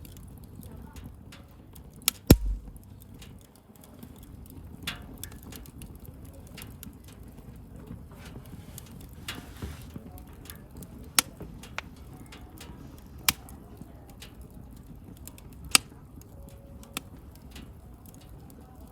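Wood bonfire crackling: a steady low rush of burning with scattered sharp snaps and pops. The biggest pop, about two seconds in, has a dull thump under it, and a few more loud pops come later on.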